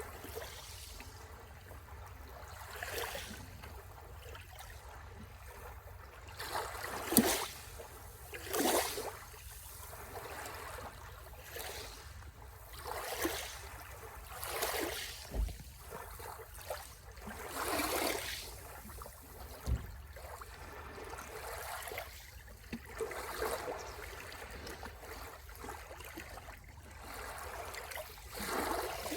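Sea waves breaking and washing on the shore, one after another, each a rush of noise about a second long over a steady low background. The loudest wave comes about seven seconds in.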